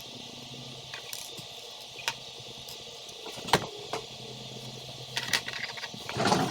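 Small construction-toy pieces clicking and being handled, with a few separate sharp clicks and then a quick flurry of rattling clicks near the end, over a faint steady hum.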